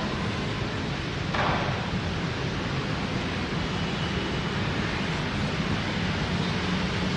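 Heavy rain falling in a steady hiss, with a brief louder burst about a second and a half in and a low steady hum underneath.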